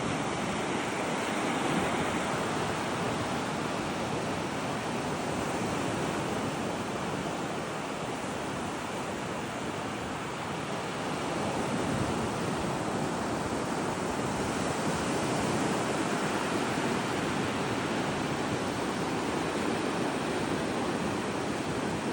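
Ocean surf breaking and washing continuously, with slow swells in loudness. Wind rumbles on the microphone.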